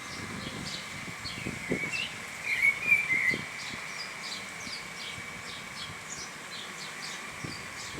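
Birds chirping in rapid, repeated short calls over a steady high insect drone, with one louder warbling bird call in the middle.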